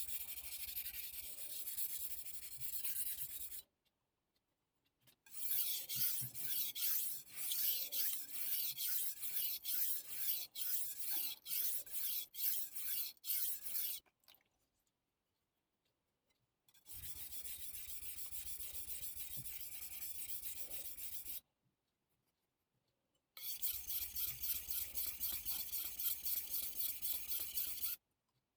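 Chef knife blade being stroked back and forth on a soaked Missarka combination whetstone, a gritty scraping in runs of rapid strokes. It stops and restarts three times with short silent pauses.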